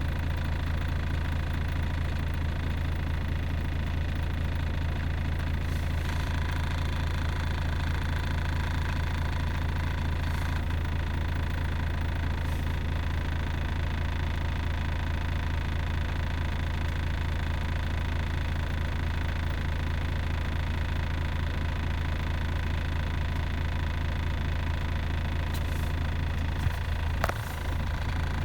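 Volvo FH4 truck's diesel engine idling steadily, with a few short clicks near the end.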